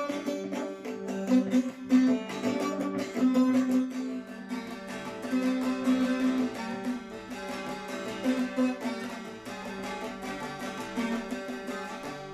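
Bağlama (saz), the long-necked Turkish lute, played alone in an instrumental interlude between sung verses, with a fast run of plucked notes carrying the melody.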